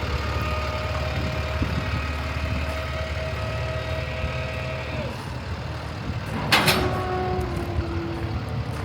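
Heavy truck's Paccar PX-7 diesel engine idling steadily, with one short, loud hiss of air about six and a half seconds in.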